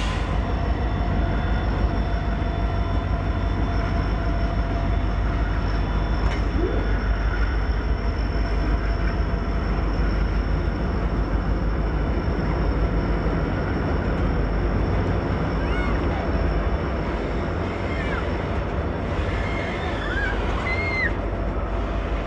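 Freight train rolling past with a steady, heavy rumble of cars on the rails. A few brief high squeals come in near the end.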